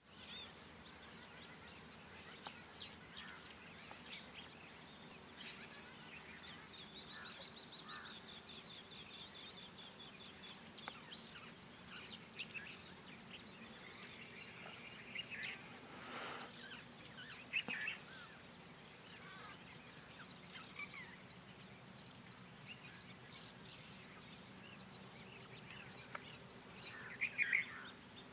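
Many birds chirping: short, high calls every second or so, with a fast, even trill lasting about three seconds some seven seconds in, over steady low background noise.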